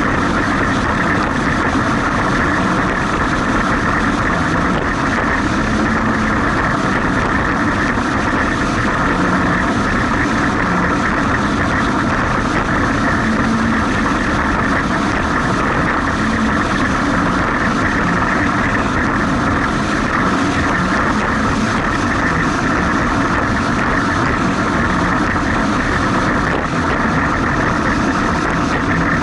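Jet ski engine running steadily and loud under constant rushing noise, with no change in pitch or level.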